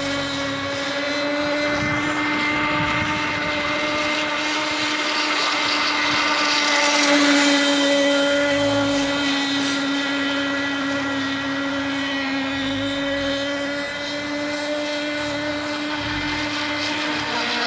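Radio-controlled model boat running on the water with a steady high-pitched motor whine, growing louder about seven to nine seconds in as it comes closer.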